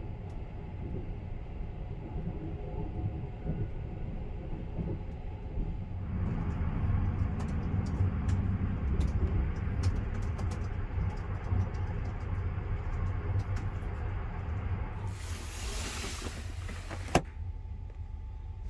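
Steady low rumble of the Sunrise Izumo sleeper train running, heard from inside a private compartment. From about a third of the way in come quick light clicks of laptop keys being typed; near the end a hiss lasts about two seconds, followed by one sharp click.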